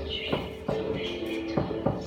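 Background music, with about four sharp knocks from a foosball table's ball and rods striking during play.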